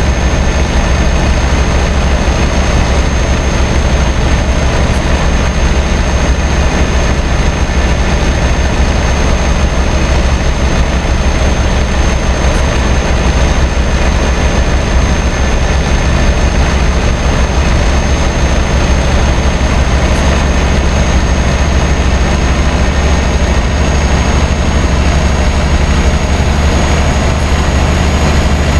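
Scania R560's V8 diesel engine running steadily on a truck hauling about 80 tonnes, a heavy low drone mixed with road noise, with a thin steady high whine over it.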